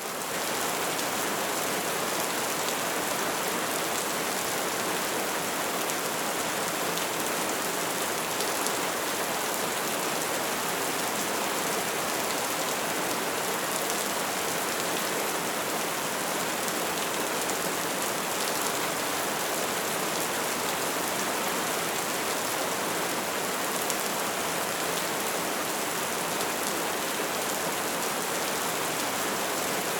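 Crackling bonfire: a steady dense hiss of burning with many small pops and crackles. It fades in at the very start.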